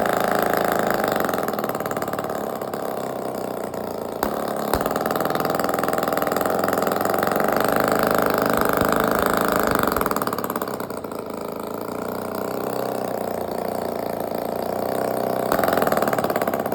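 Prototype two-stroke twin boxer crankless engine running, its speed rising and falling: up for the first second or so, lower, up again from about four to ten seconds in, lower again, and up once more near the end. The builder says its idle is uneven because of temporarily fitted scavenging parts.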